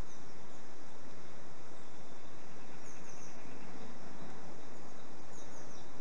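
Steady outdoor background hiss with faint, high songbird chirps: two quick runs of chirps, about halfway and near the end.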